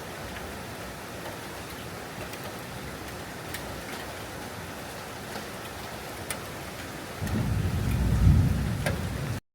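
Steady rain falling, with scattered drip ticks. About seven seconds in, a louder low rumble of thunder comes up, then the sound cuts off abruptly.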